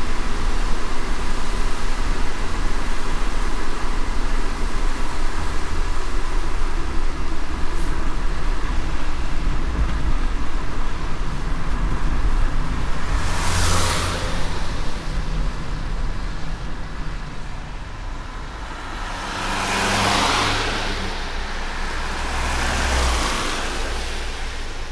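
A car driving in light rain: steady road and tyre noise with a low rumble. Three other vehicles swish past in the second half, about 13, 20 and 23 seconds in.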